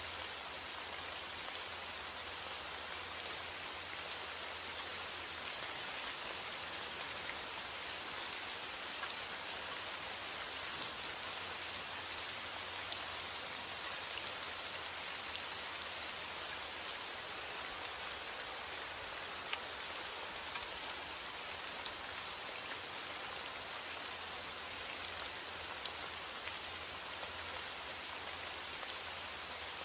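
Steady heavy rain: an even hiss with countless fine drop ticks, unbroken throughout.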